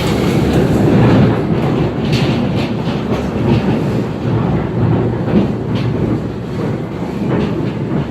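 A tornado passing at close range: a loud, continuous low roar like a freight train, with scattered sharp clatters through it.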